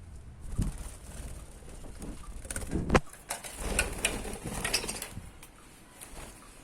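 Budgerigars chirping, with scattered clicks, rustling and low thumps. The loudest sound is a sharp knock about three seconds in.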